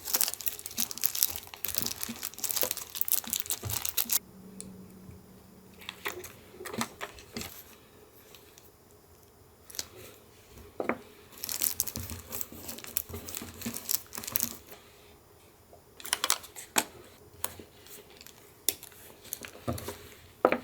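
Paper being handled for collage: rustling, crinkling and tearing, with scattered small taps and clicks. It comes in busy spells, about four seconds at the start and again between about 11 and 17 seconds, and is sparser in between.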